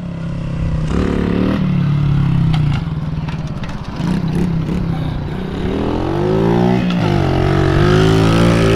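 Mini bike engine running under throttle. Its pitch climbs steadily in the second half as it accelerates, drops briefly and then rises again near the end.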